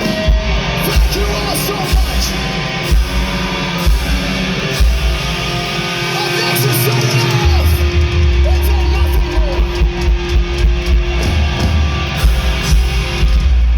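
Live heavy rock band playing: distorted electric guitars, bass and drums with a steady beat, the low end growing heavier and more sustained about halfway through.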